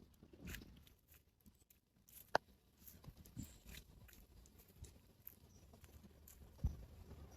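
Faint scattered clicks and a few low thumps, the sharpest click about two seconds in and a stronger thump near the end.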